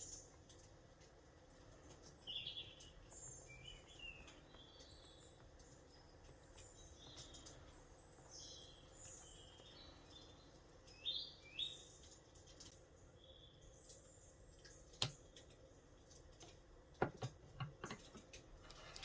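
Faint chirping of small birds: many short, scattered calls. Near the end there are a few sharp clicks, which are the loudest sounds.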